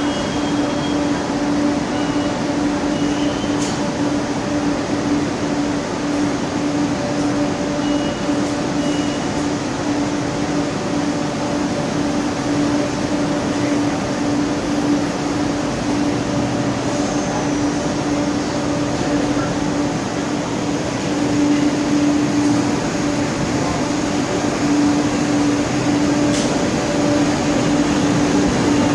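Steady hum with a constant low tone under platform noise. In the last few seconds a Thurbo Stadler GTW train rolls in past the platform and grows louder.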